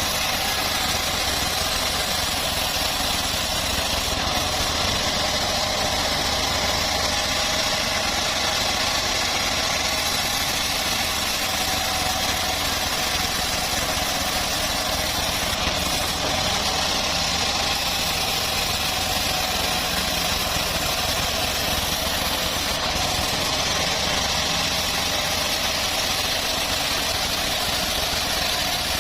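Engine-driven homemade bandsaw mill running steadily, a constant, unbroken machine drone.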